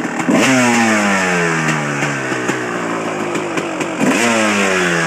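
Motorcycle engine: the revs jump up sharply twice, just after the start and again about four seconds in, and each time the pitch falls slowly over several seconds.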